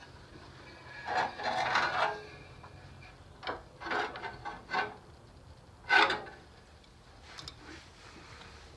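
VW Beetle engine being turned over by hand with a wrench: a rough rasping rub about a second in, then a few short knocks and one sharper clank of metal about six seconds in.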